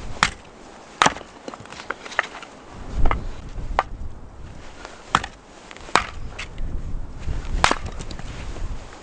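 Firewood being split: a series of sharp wooden chopping strikes at irregular intervals, roughly one a second, with one heavier, duller thud about three seconds in.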